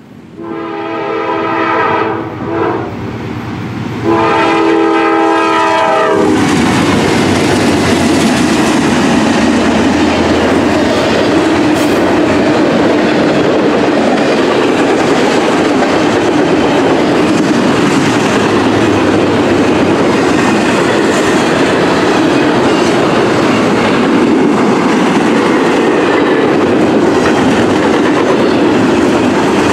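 Locomotive horn sounding two blasts of about two seconds each at a road crossing, the second louder, then the train rolling past loud and steady.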